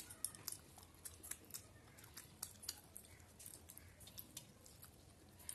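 Faint, quick wet clicks and smacks of a person chewing and eating with her fingers, a mouthful of rice and curry. The clicks come thickest in the first couple of seconds and thin out after.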